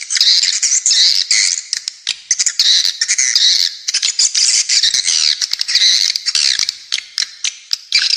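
Dense, rapid chattering of spiderhunter and swiftlet calls layered together: many short, harsh notes and quick twitters packed closely, with no pauses.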